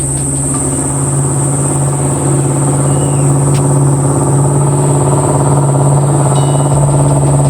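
A motor engine running at a steady pitch, with a constant high insect buzz over it.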